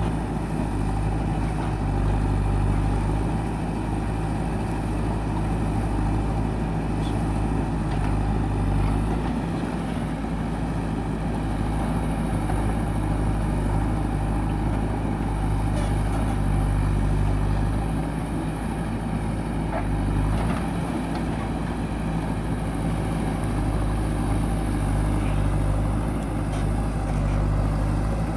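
Diesel engine of a JCB backhoe loader running steadily at work, its low note shifting a little under changing load, with a few faint knocks.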